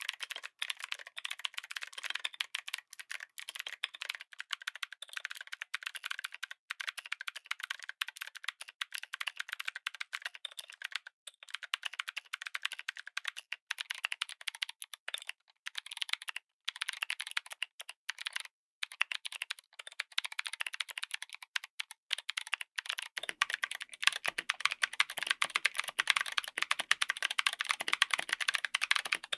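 Steady, fast typing on a mechanical keyboard fitted with clicky switches: a dense run of sharp, irregular key clicks. About 23 seconds in, the clicking turns louder and gains a lower, fuller body.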